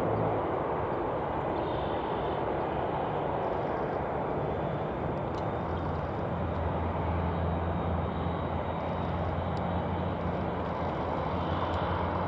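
Aircraft engine noise at an airport: a steady rushing rumble with a low hum that grows stronger about five seconds in.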